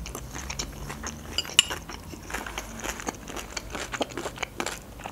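Close-up chewing of a mouthful of crisp vegetable salad: many small wet crunches and mouth clicks. A single light clink, a metal fork against a glass bowl, sounds about a second and a half in.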